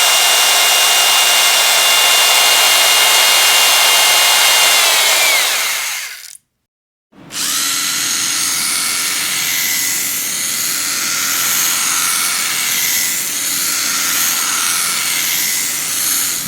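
Electric power drill running with a steady high whine, winding down with a falling pitch and stopping about six seconds in. After about a second of quiet it starts again and runs with an uneven, wavering tone.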